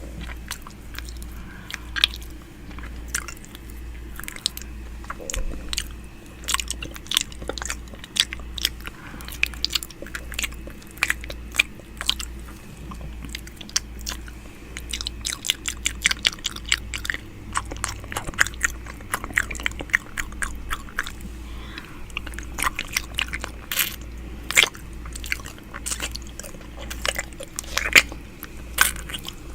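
ASMR ear-eating mouth sounds close to the microphone: wet mouth clicks, smacks and nibbling sounds in irregular quick runs.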